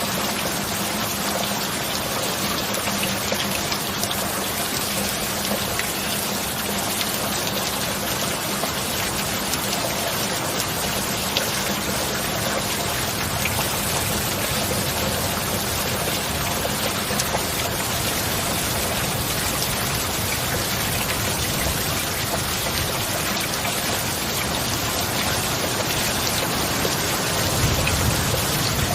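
Heavy rain falling steadily in a dense, even patter, with a low rumble of distant thunder swelling near the end.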